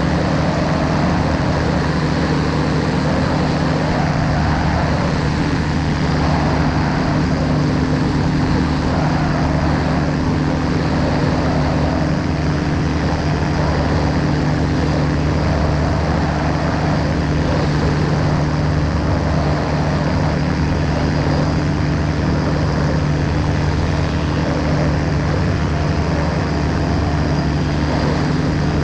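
The engine and propeller of a V200-A ultralight aircraft running at a steady, unchanging pitch, with a constant rush of noise over the engine hum.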